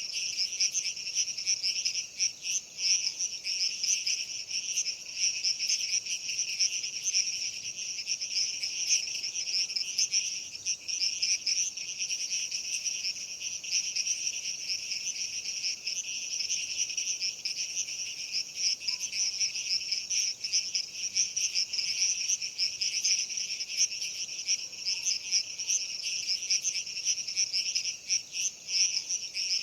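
A dense, steady chorus of many insects, crickets or similar, a high buzzing trill that runs on without a break.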